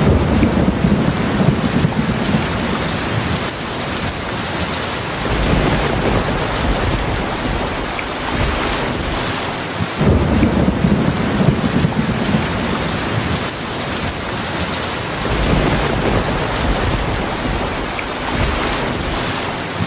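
Heavy, steady rain with low rumbles of thunder rolling in again and again; a fresh rumble starts suddenly at the outset and another about ten seconds in.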